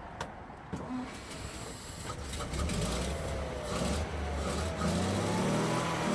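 The 1937 Leyland pump escape's straight-six petrol engine running and growing louder from about two seconds in, with a whine that rises and falls in pitch over the rumble.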